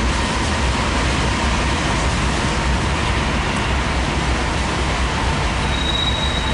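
Covered hopper cars of a slow-moving BNSF grain train rolling past, a steady low rumble of wheels on rail with a faint high tone near the end.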